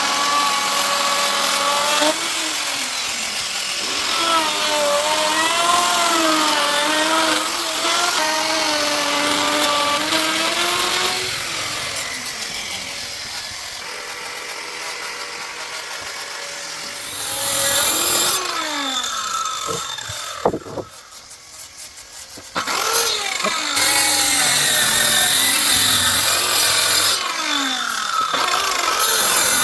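Electric power tool cutting wood, its motor pitch dipping and recovering as it takes up the cut. It eases off briefly about two-thirds of the way through, then runs again.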